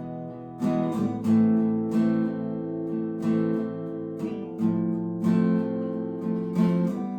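Acoustic guitar strummed in a steady rhythm, chords ringing between strokes, as an instrumental break between sung verses.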